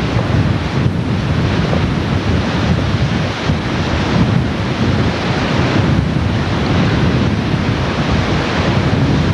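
Floodwater of a flash flood rushing in a loud, steady roar, with wind buffeting the microphone.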